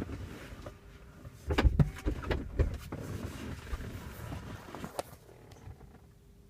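A run of dull knocks and clunks in a BMW, a few in quick succession about a second and a half in, then a single sharp click near the end over a faint steady hum: the unexplained noise the owner is trying to identify.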